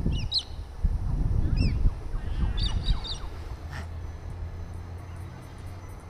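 Birds calling with short, high, curved calls, several in the first three seconds, over low rumbling wind buffeting the microphone.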